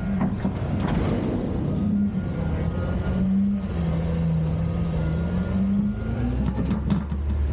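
Autocar front loader garbage truck's engine running and revving, its pitch dipping around the middle and climbing again, with scattered knocks.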